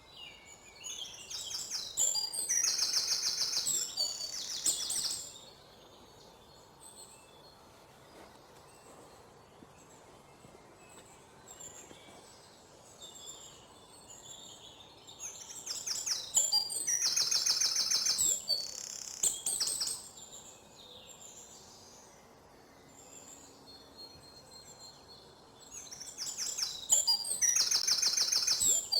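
Songbirds chirping: three loud bouts of rapid, high twittering, each lasting a few seconds, with fainter scattered calls in the quieter stretches between them.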